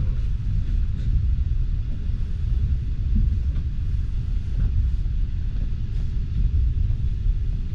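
Steady low rumble of a moving passenger train, heard from inside the carriage: wheels running on the rails, with a few faint clicks.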